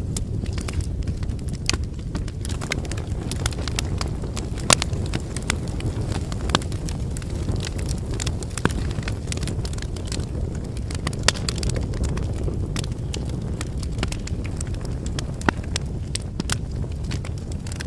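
Wood campfire burning: firewood crackling with frequent small clicks and a few sharper, louder pops, over a steady low rumble.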